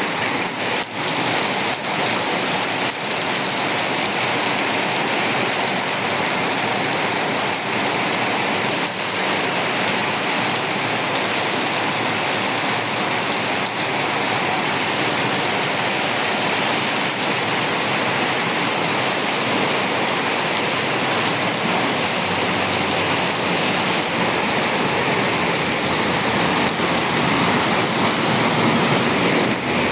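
Heavy tropical downpour: a dense, steady rush of rain and running water.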